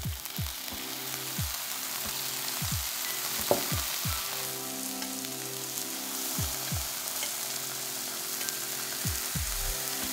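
Slices of king oyster mushroom sizzling steadily in hot oil in a nonstick frying pan, just seasoned with soy sauce.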